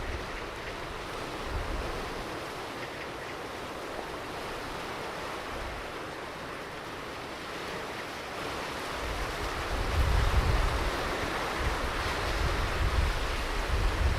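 Ocean surf washing onto a beach in a steady hiss, swelling louder in the second half as a wave comes in. Wind buffets the microphone with low rumbles, heaviest from about nine seconds in.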